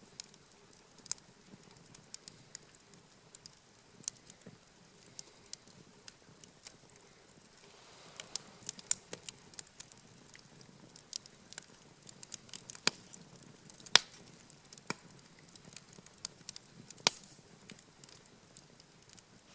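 Wood campfire crackling, with irregular sharp pops from the burning wood; the pops come thicker in the second half, two of them louder than the rest.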